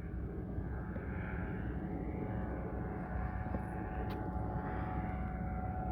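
Small propeller airplane flying overhead, its engine a steady drone.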